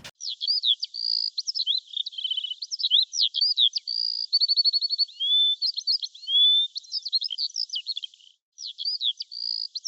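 A songbird singing a long, varied song of quick high whistled notes, rapid trills and rising and falling slurs, with a brief pause about eight seconds in.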